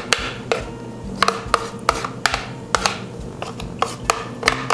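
A kitchen utensil scraping and clicking against a dish as the remaining pie batter is poured and spread over the filling. The strikes and scrapes come irregularly, several times a second.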